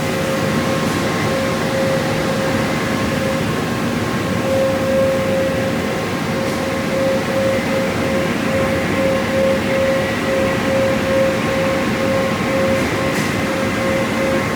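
Conveyor car wash tunnel equipment running: a steady wash of spray and machinery noise with a constant hum from a motor or pump.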